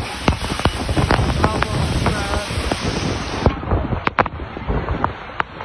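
Storm wind gusting hard over the microphone with a dense rushing roar, while loose things clatter and bang in irregular knocks. Distant voices cry out a couple of times.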